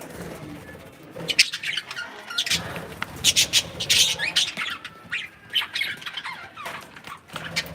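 Pet cockatiels and budgies chirping and squawking in a dense run of short, sharp calls, busiest from about a second in until near the end.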